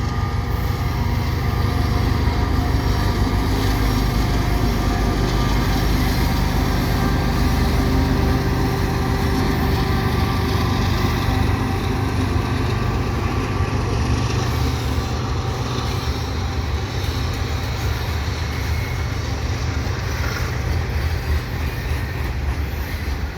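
A diesel-powered CN freight train running past with a steady low engine hum and several held tones above it, loud throughout.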